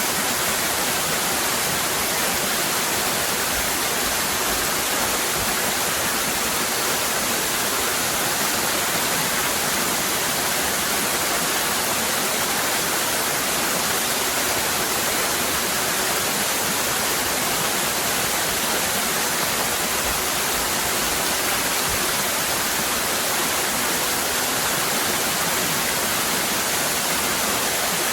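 Waterfall: water cascading in a steady, unbroken rush with a strong hiss.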